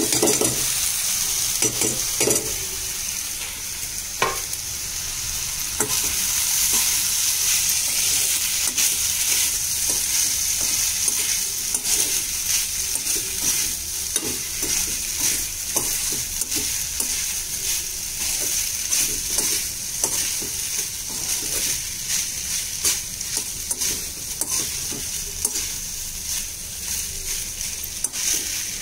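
Rice and vegetables frying in a hot kadai, sizzling steadily, while a metal spatula stirs and scrapes against the pan in quick, frequent strokes. Cooked rice is tipped in from a steel plate near the start.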